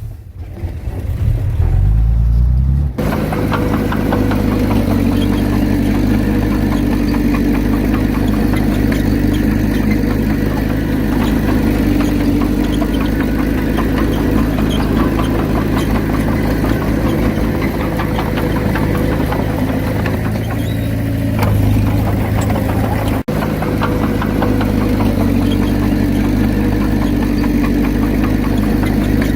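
Heavy diesel engine of earthmoving equipment running steadily with a clattering note. In the first few seconds its pitch rises, then the sound changes abruptly, and it breaks off for an instant near the end.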